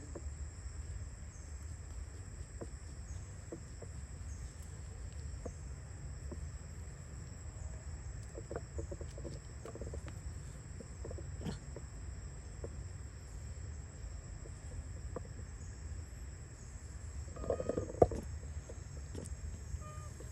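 A steady, high-pitched insect drone over a low rumble. A few short, faint sounds and clicks are scattered through it. A brief burst of sound and a sharp knock come near the end.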